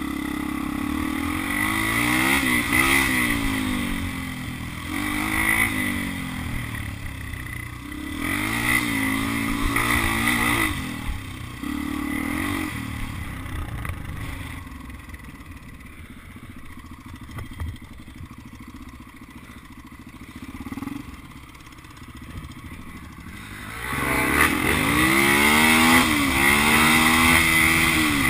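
Motocross dirt bike engine revving up and backing off again and again, as on each straight and through the jumps and corners. It fades for a while partway through, then comes back loud near the end.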